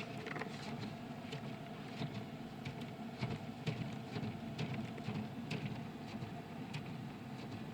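Vehicle engine idling steadily, with light irregular ticks and patter over it.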